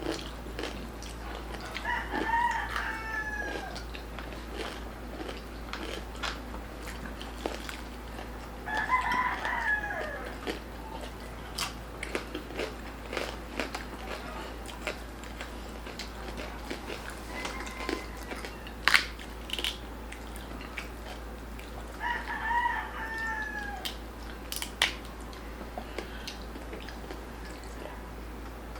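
A rooster crowing three times, each crow about a second and a half long and falling in pitch at the end, with a short call between. Small clicks and smacks of eating are heard throughout.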